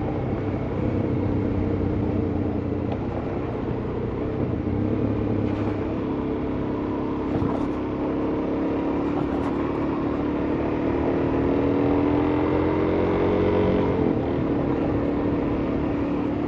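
Suzuki DR-Z400S single-cylinder four-stroke engine running while the bike is ridden. Its note climbs slowly for several seconds and drops about fourteen seconds in.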